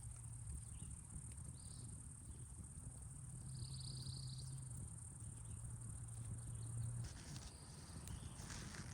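Insects chirring steadily in a continuous high-pitched drone, over a low steady hum, with a few short higher chirps and some rustling near the end.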